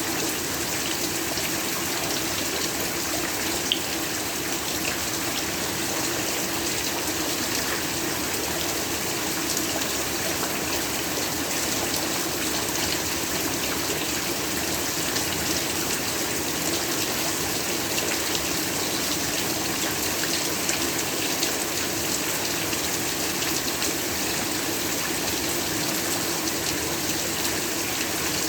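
Steady heavy rain, with a dense, even hiss and scattered sharper drops. The level holds constant throughout.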